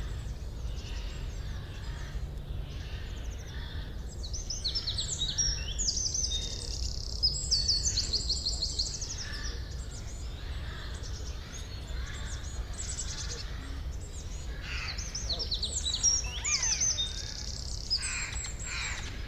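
Songbirds singing in a forest, in two long bursts of quick, high chirps and trills, over a steady low background rumble.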